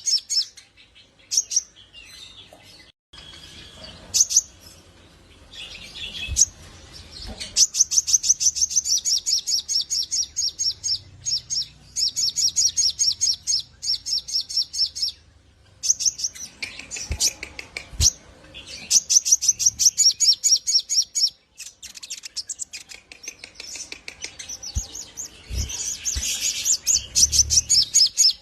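Sogok ontong sunbird singing its full 'ngleper' song: long rapid trains of high, evenly repeated notes, broken by short pauses. A few soft low thumps come in between.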